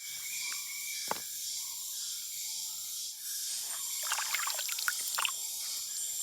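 Forest insects droning steadily at a high pitch, with a quick run of crackles about four seconds in.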